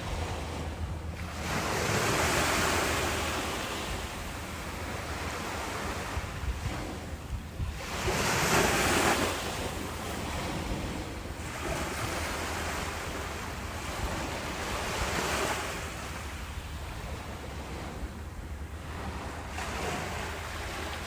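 Ocean waves breaking and washing up the shore in slow surges, roughly one every six seconds, the strongest about eight seconds in. A steady low rumble runs underneath.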